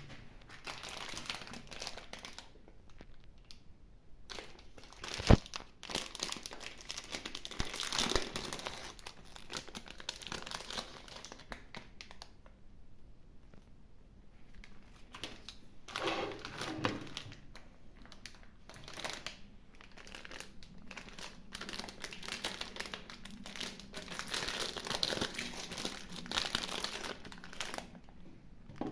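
Plastic ice cream wrapping crinkling and tearing as it is handled and opened, in uneven bursts with short pauses, with one sharp knock about five seconds in.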